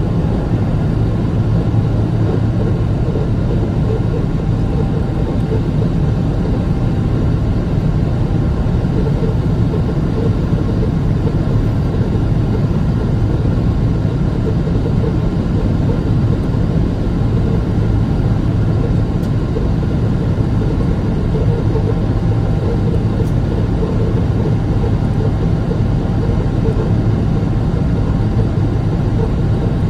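Airliner's jet engines and rushing air making a steady, loud drone, heard from on board the plane.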